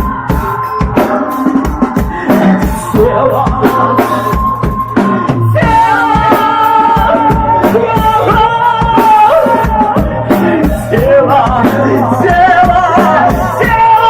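Rock song played by a band, with a steady drum-kit beat; about six seconds in, a wavering melodic lead line comes in above it.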